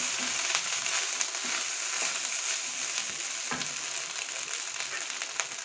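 Chicken fried rice sizzling in a hot kadai as it is stirred and tossed with a wooden spatula: a steady hiss with a few light clicks scattered through it.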